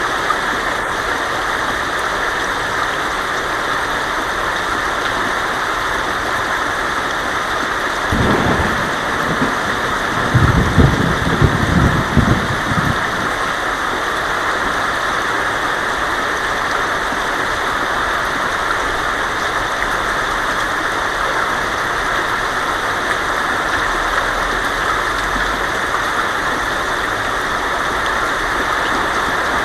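Heavy rain falling steadily on a tin roof. A low rumble of thunder comes in about eight seconds in, is loudest for a couple of seconds after that, and dies away.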